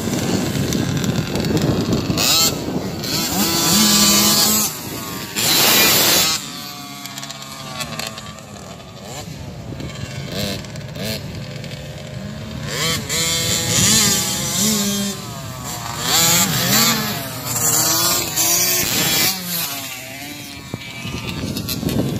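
Motocross dirt bike engines revving and easing off over and over as the bikes ride around the track, the pitch rising and falling repeatedly, with more than one bike heard at once.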